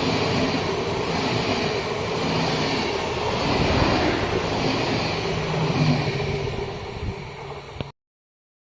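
Train running past on the line: a steady rumble of wheels on rails that thins near the end, then cuts off suddenly into silence.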